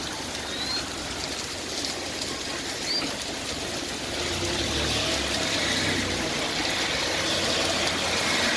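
Heavy rain falling steadily, with water running and splashing.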